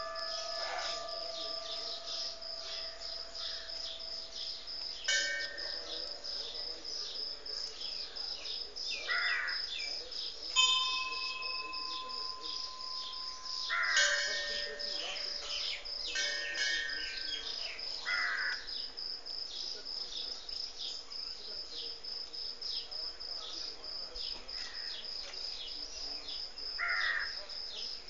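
Outdoor bird calls: a bird caws three times, several seconds apart, over a steady high-pitched whine with fine ticking. A few ringing tones start suddenly and fade slowly.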